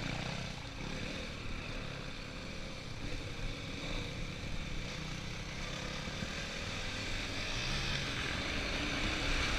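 Dirt bike engines running on a motocross track, getting louder near the end.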